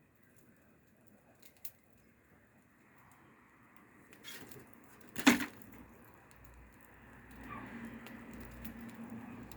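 Wood fire crackling: scattered small pops, then one loud sharp crack about five seconds in, followed by a steadier low rumble.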